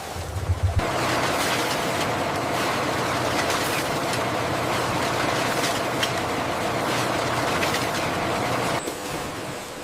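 Industrial machinery running with a steady mechanical clatter and scattered clicks. It starts abruptly about a second in and stops suddenly near the end.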